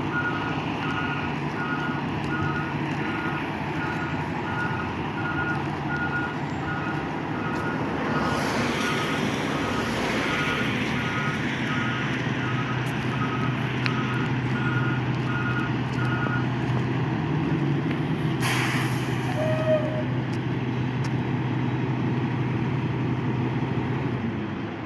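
Fire truck backing up, its reversing alarm beeping steadily about once a second over the running diesel engine. The beeps stop about two-thirds of the way through, and a short hiss of air brakes follows.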